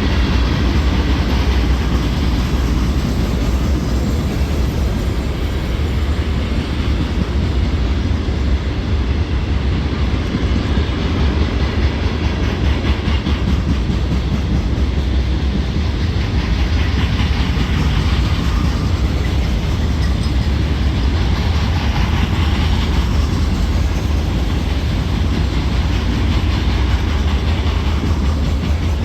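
Loaded rock cars of a CSX freight train rolling past: a steady, loud rumble of steel wheels on rail with a continuous rattle and clatter.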